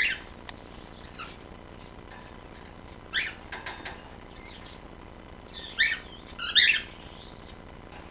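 Cockatiels giving a few short chirps: one at the start, one about three seconds in, and two close together near the end.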